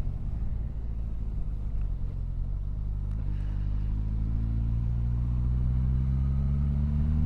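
Motorcycle engine running steadily under the rush of riding noise, then its pitch slowly climbing from about three seconds in as the bike accelerates.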